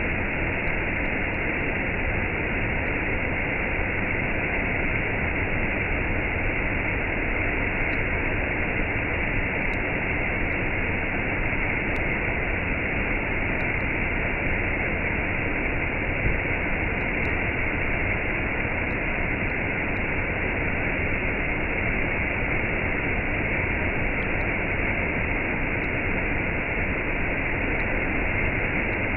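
Waterfall with a cascade: water falling in a steady, unbroken rush.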